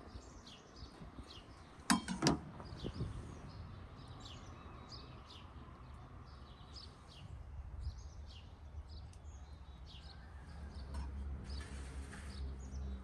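Small birds chirping repeatedly in short high calls, with two sharp knocks close together about two seconds in.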